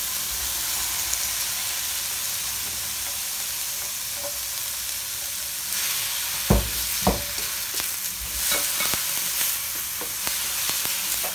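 Chopped tomatoes, onion, garlic and ginger sizzling as they are sautéed in a nonstick wok, with a spatula stirring and scraping through them. About halfway through there are two sharp knocks of the spatula against the wok, followed by a few lighter clicks.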